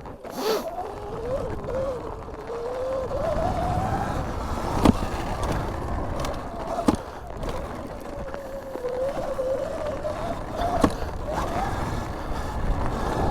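2019 Sur-Ron electric dirt bike being ridden: the motor's whine rises and falls with speed over a low rumble of wind and tyres. Three sharp knocks come about 5, 7 and 11 seconds in.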